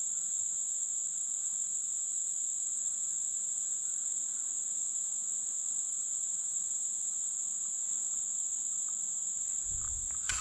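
Steady, high-pitched insect chorus, an even unbroken trill, with a low rumble coming in near the end.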